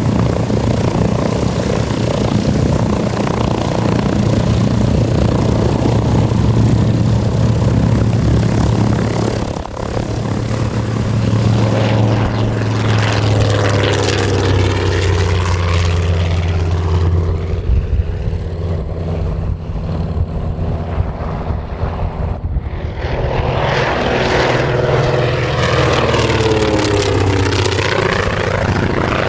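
Grumman TBM Avenger's radial engine and propeller running loud and steady in flight, with a sweeping shift in tone as the plane passes by twice, once midway and again near the end.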